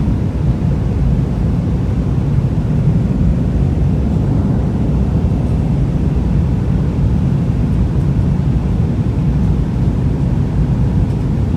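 Airbus A320 cabin noise in flight: a steady low rumble of the engines and rushing air, with no breaks or changes.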